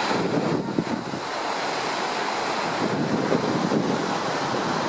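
Strong wind buffeting the microphone: a steady rushing noise that swells in gusts.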